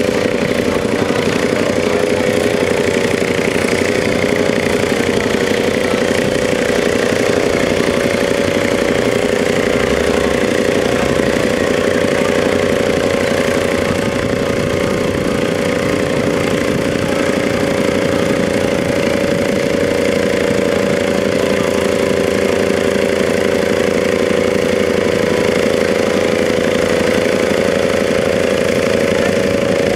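Massey Ferguson tractor engine running loud and steady at an even pitch.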